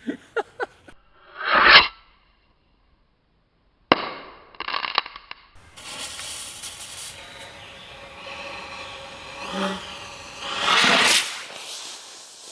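Homemade rocket launcher firing a homemade round: a few sharp pops and a loud blast about a second and a half in, then more pops and a long hissing burn with a louder rush near the end.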